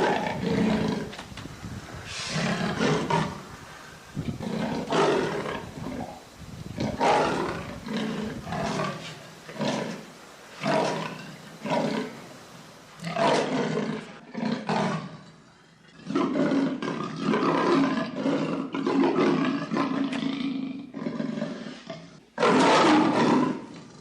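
A big cat roaring and growling over and over, in rough calls a second or two apart, with one loud roar near the end.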